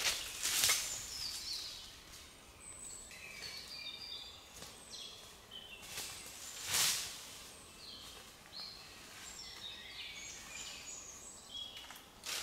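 Small birds singing in many short, high notes, some in falling runs, with two brief louder noises about half a second and seven seconds in.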